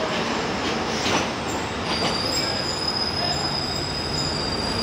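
Pakistan Railways passenger coaches rolling slowly past the platform on arrival, a steady rumble of wheels on rail with a couple of knocks about a second in. About two seconds in, a thin, high, steady wheel squeal sets in and holds as the train slows.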